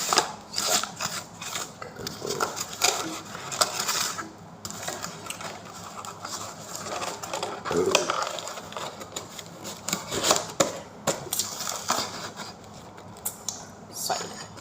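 Irregular clicks, knocks and scraping of tableware and food packaging being handled and moved about on a table.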